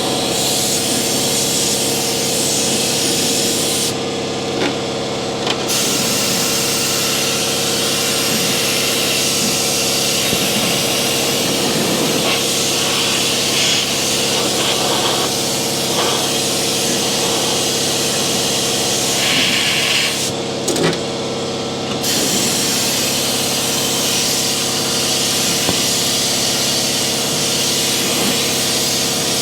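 Air-powered undercoating gun spraying oil through a wand into a truck door's cavities: a loud, steady hiss over a faint steady hum, cut off briefly twice as the trigger is let go, about four seconds in and about twenty seconds in.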